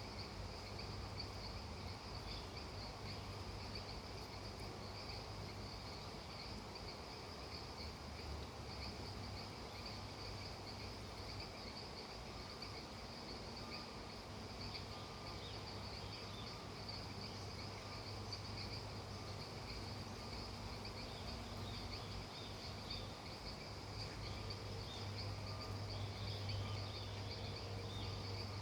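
A steady chorus of crickets and other night insects trilling without pause over an even low hiss, with a constant low hum underneath.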